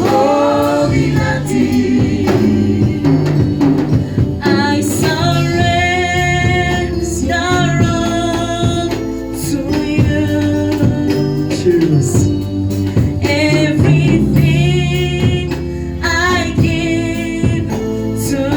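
Gospel music: a group of voices singing to a band accompaniment, with a steady beat.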